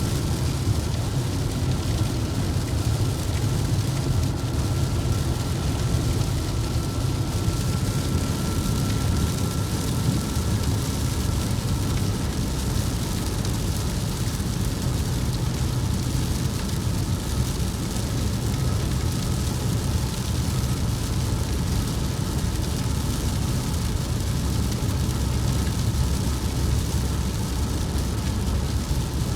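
Steady engine and road noise heard from inside a moving vehicle's cab on the highway, with a faint thin tone above it that weakens about ten seconds in.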